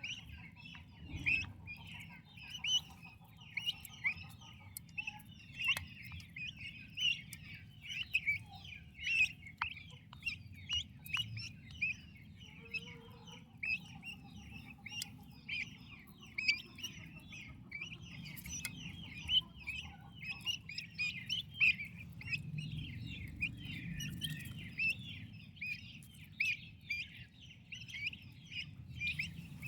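A brood of turkey poults peeping: many short, high chirps overlapping, several a second without a break, over a low rumble.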